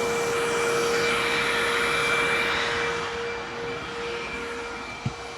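Hoover WindTunnel upright vacuum cleaner running with a steady whine, its HEPA bag packed full, then winding down as it is unplugged: the whine slides lower and fades over the last couple of seconds. A small click near the end.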